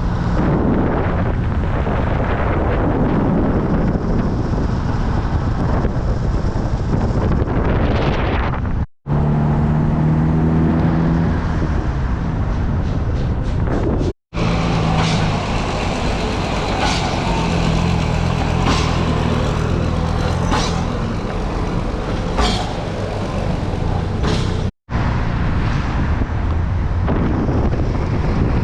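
Offroad jeep engine running on a rough mountain track, a steady rumble mixed with road and wind noise. A run of sharp knocks and rattles comes in the middle, and the sound drops out briefly three times.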